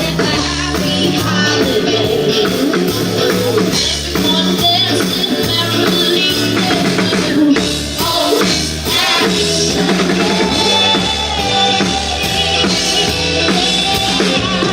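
Live band playing an upbeat rock number, with a drum kit and a steady bass line.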